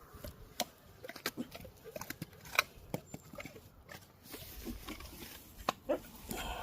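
A Cane Corso eating: irregular crunches, clicks and wet smacks of chewing and mouthing food.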